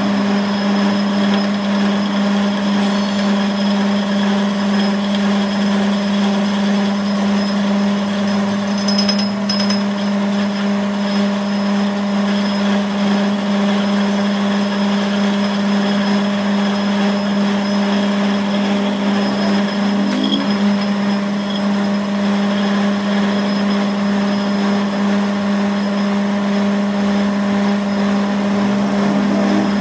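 Steady machine hum: one low, unchanging tone with fainter overtones, running evenly at a constant level.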